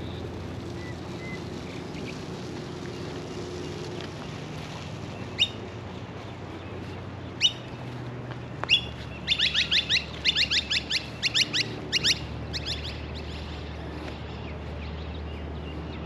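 A bird calling: a few single sharp notes that sweep downward in pitch, then a rapid run of about a dozen more over some three seconds, over a steady low background rumble.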